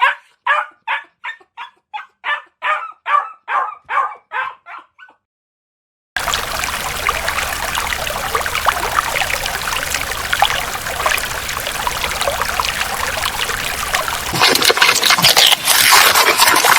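A small dog yapping in a quick run of about fourteen short, high barks over some five seconds. After a moment of silence, a steady rush of running water follows, growing louder near the end.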